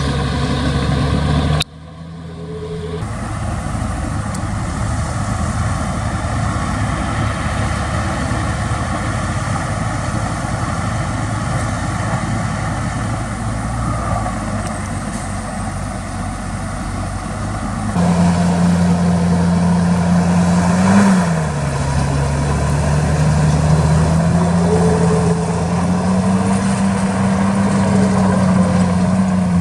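Diesel engines of heavy earthmoving machinery running steadily. About a second and a half in, the sound drops out abruptly as at a cut. A little past halfway a louder engine note takes over and swings up and down in pitch a few times as the throttle changes.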